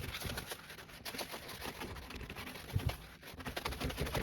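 Scrub Daddy sponge scrubbing a dirty washing machine: quick, irregular rubbing strokes with light knocks, a little stronger near the end.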